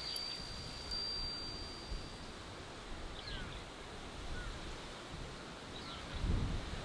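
Wind blowing steadily, with a stronger gust near the end, while a chime's single high tone rings on and fades out about two seconds in. A few faint, brief chirps, like small birds, come through later.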